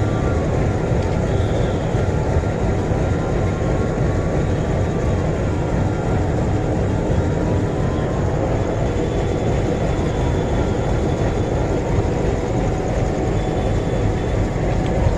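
Steady, loud outdoor rumble of a busy rail-side scene, with a faint tone above it that rises and falls slowly every two to three seconds.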